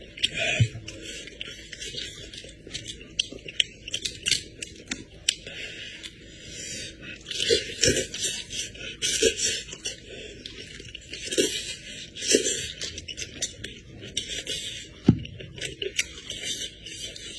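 Close-up eating sounds of someone chewing goat head meat: irregular wet smacking and chewing bursts with scattered crunches and scrapes.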